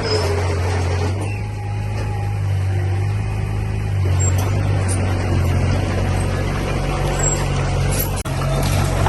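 Diesel engine of heavy construction machinery running steadily, a low hum with a brief gap about eight seconds in.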